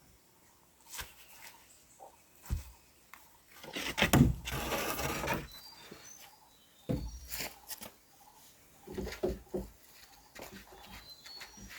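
A few scattered knocks and thuds, with a louder rustling scrape about four seconds in, like work being done by hand. Faint bird chirps sound in the background.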